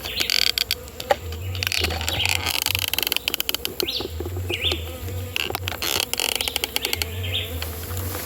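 Orchid bees buzzing steadily around a tree stump, with small birds chirping now and then and scattered sharp clicks.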